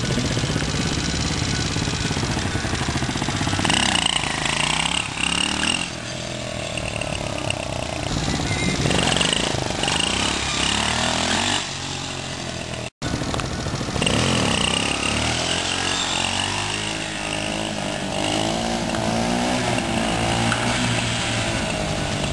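Mini bike's small engine revving up and falling back again and again, its pitch rising and dropping with each burst of throttle. The sound cuts out for an instant about 13 seconds in, then the revving carries on.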